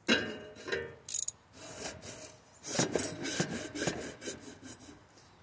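Fast metallic clicking and gritty scraping at an engine's water pump, opening with a sharp click and thickening into a quick run of clicks in the second half.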